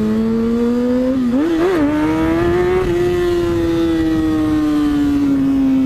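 Motorcycle engine revved hard for a wheelie: the pitch climbs, wavers with a quick throttle blip about a second and a half in, climbs again to a peak, then slowly falls as the throttle eases off.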